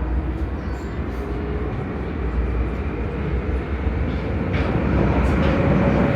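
Prague metro train running through the tunnel: a steady rumble and rolling noise under a motor whine that rises slowly in pitch as the train picks up speed.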